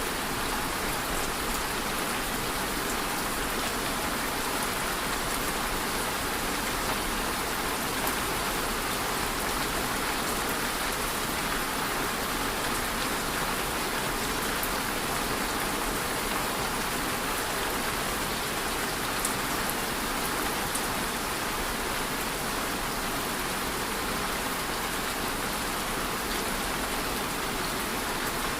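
Steady rain falling, an even hiss with scattered fine drop ticks, unchanging throughout.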